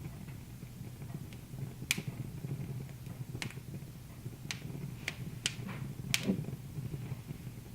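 Wood fire crackling: about six sharp, irregular pops over a low, steady rumble.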